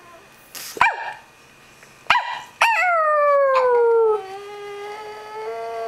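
Pug howling: two short, sharp yelps, then about two and a half seconds in a long howl that starts high, slides down in pitch and settles into a steady, quieter held note.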